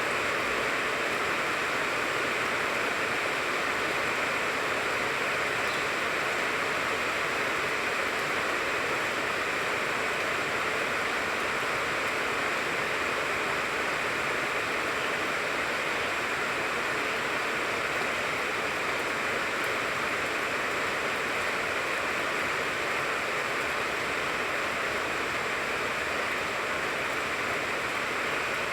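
Steady rain falling on the leaves of a tangerine tree: an even, unbroken hiss.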